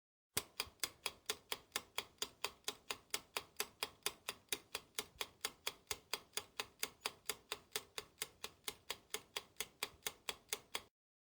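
Ticking timer sound effect: evenly spaced sharp ticks, about four a second, starting abruptly and cutting off suddenly shortly before the end.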